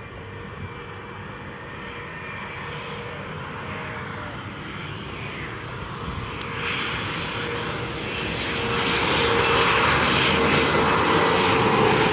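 Airliner engines growing steadily louder as the aircraft draws closer, a broad rush with a high whine over it, loudest from about nine seconds in.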